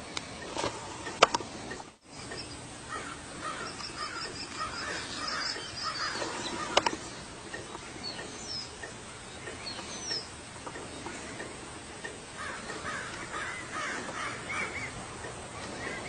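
Birds calling in bursts of short repeated calls, with a couple of sharp clicks.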